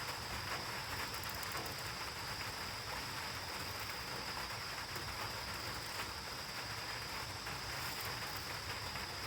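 Steady rain falling, a constant even hiss of many drops.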